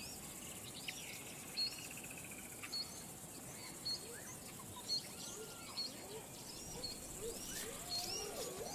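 Faint bird calls over a quiet outdoor hiss: short high chirps repeated every second or so, and lower, briefer rising notes that come more often near the end.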